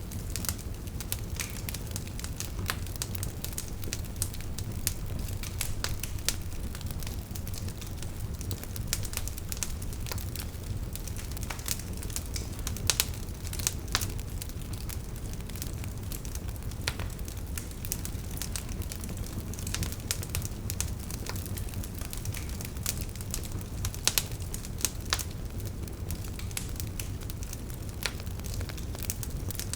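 Wood fire burning with a steady low rumble and frequent sharp, irregular crackles and pops from the burning logs.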